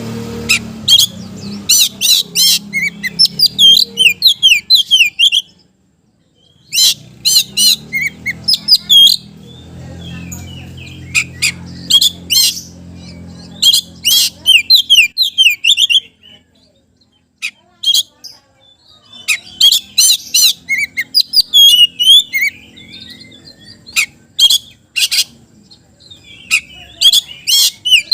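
Oriental magpie-robin (kacer) singing in phrases of rapid, bending whistles and sharp clicking notes, broken by pauses of one to three seconds.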